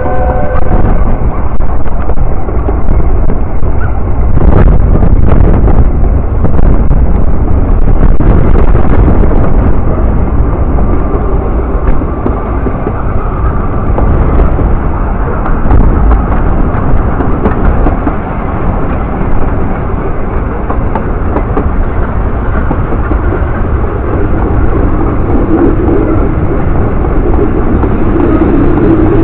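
Steady running noise of a Welsh Highland Railway narrow-gauge train, heard from a carriage while it travels: a continuous loud rumble of wheels on the track.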